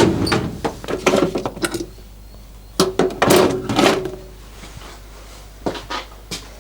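Clunks, clicks and rattles of metal tools being handled while a dial indicator is set up on a lathe, in two busy spells with a few light knocks near the end.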